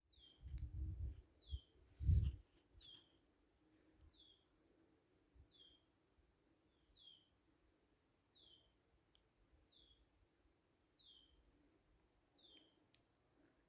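A bird repeating a two-note call about every one and a half seconds: a short high note followed by a quick falling one. A few low thuds come in the first couple of seconds, the loudest about two seconds in.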